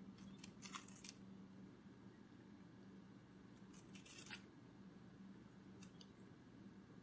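Near silence with a low steady hum and a few brief, faint crackling rustles: a cluster near the start, another about four seconds in, and a short one near six seconds.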